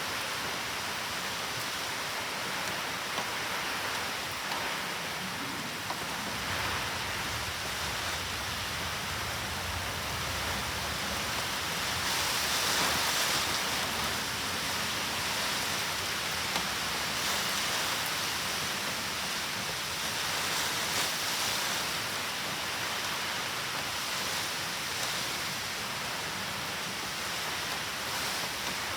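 Heavy typhoon rain falling steadily, swelling louder for a few seconds about twelve seconds in.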